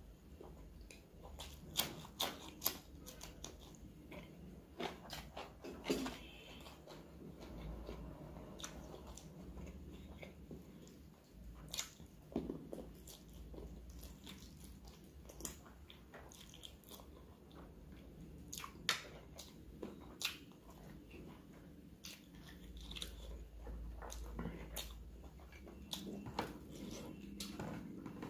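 A person biting and chewing food with the mouth close to the microphone: wet mouth smacks and short sharp clicks come irregularly throughout.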